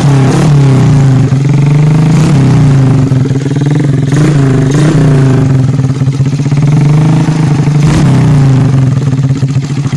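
Suzuki Shogun motorcycle's single-cylinder four-stroke engine running loud through an aftermarket BSS jigsaw-model exhaust, held at a raised idle and revved up and back down several times, easing off near the end.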